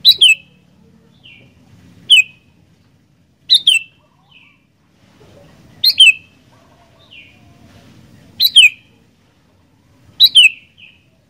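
Sooty-headed bulbul (kutilang) calling: six short, loud phrases about two seconds apart, each a quick falling whistle followed by a softer note.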